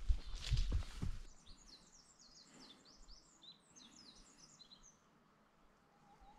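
Footsteps on a forest trail for about the first second, then a bird singing faintly: a quick run of short, high chirps, each falling in pitch, for a few seconds.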